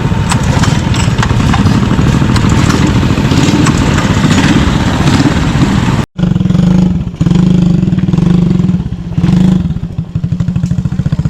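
Small mini bike engine running under throttle, with clattering ticks over it; about six seconds in the sound cuts abruptly to another stretch of a mini bike engine running at a steadier pitch, easing off briefly a few times.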